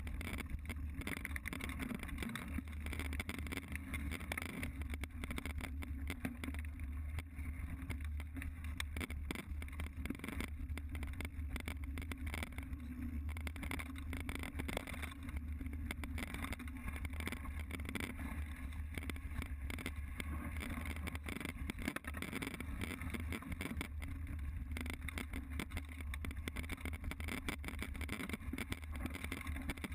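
Mountain bike ridden along a dirt trail: a steady low wind rumble on the action camera's microphone, with a constant rattle and clatter from the bike over rough ground.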